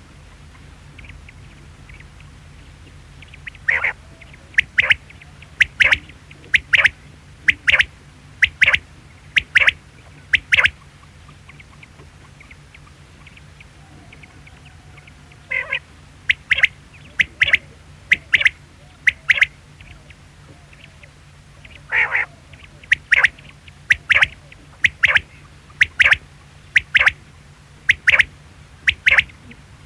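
Quail calling in three bouts. Each bout opens with a slightly longer note, followed by a run of short, sharp calls about one a second.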